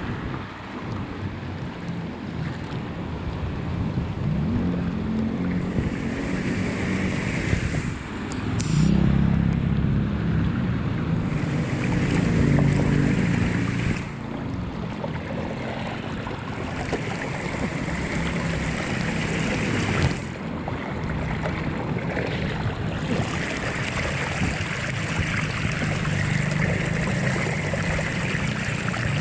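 Floodwater rushing and draining into a street culvert drain, a steady loud water noise. It changes abruptly several times, with a heavier, deeper rush in the middle.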